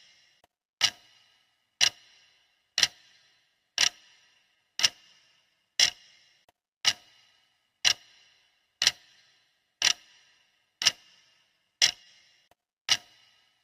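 Clock ticking sound effect: one sharp tick every second, each with a brief ringing tail, marking the timer's countdown.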